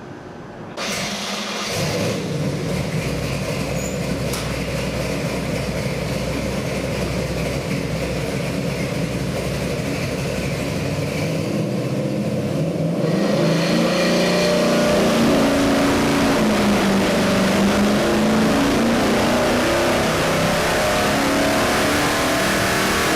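Chevy 502 cubic-inch big-block V8 crate engine with a Holley carburettor running. It comes in suddenly about a second in and is revved harder from about halfway, its pitch rising and falling.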